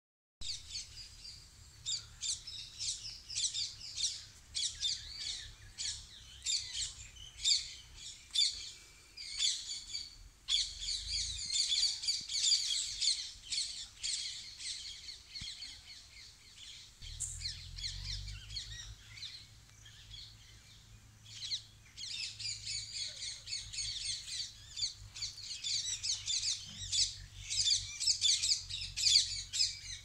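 Small birds chirping rapidly and continuously, with a thinner stretch of a few seconds midway.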